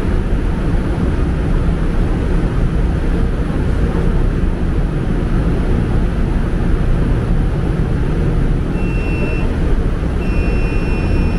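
MRT-3 light-rail train running, a steady loud rumble of wheels and motors heard from the ride. Near the end a thin high steady whine comes in briefly, then returns and holds.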